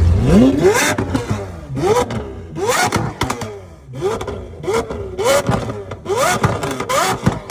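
Car engine revved hard in about seven quick blips, roughly one a second, the pitch rising sharply on each and dropping back between.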